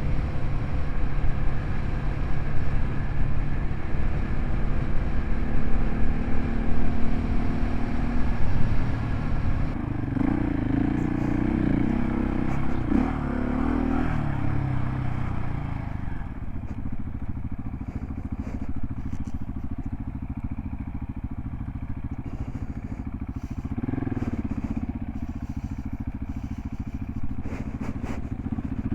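Single-cylinder dual-sport motorcycle engine running under way on a dirt road, its pitch rising as the rider opens the throttle about a third of the way in and again near the end, over steady wind and ride rumble.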